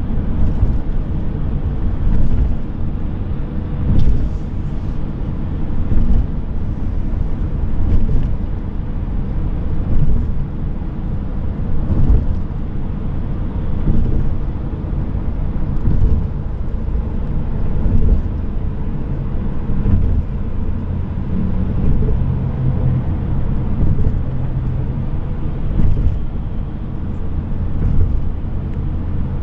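A car driving on a road: a steady low rumble of engine and tyres, swelling briefly about every two seconds.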